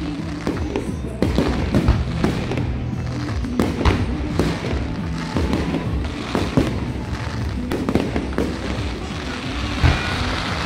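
Fireworks going off in a rapid, irregular string of sharp bangs, with music playing underneath.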